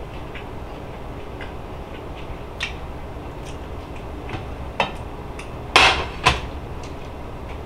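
A person chewing a bite of burger: scattered short mouth clicks and smacks, the loudest two close together about six seconds in, over a steady low hum.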